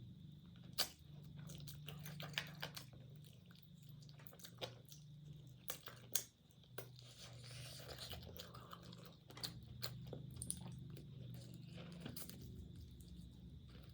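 Close-up chewing and biting of food, with irregular crisp crunches and wet clicks from the mouth, a few of them sharper and louder than the rest.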